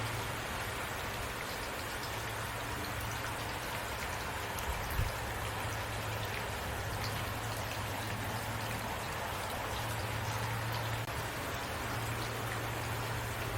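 Heavy rain falling steadily, a dense patter of drops, over a steady low hum. A single dull low thump about five seconds in.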